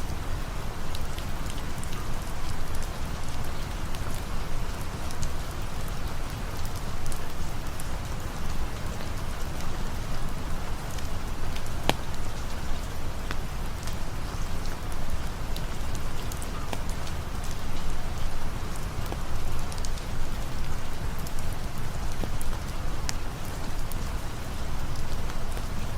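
Steady rain falling, with a deep low rumble underneath and scattered sharp ticks and pops throughout.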